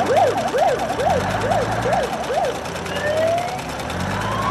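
Police car siren in a fast yelp, its pitch sweeping up and down several times a second for about two and a half seconds, then changing to a slow rising wail near the end.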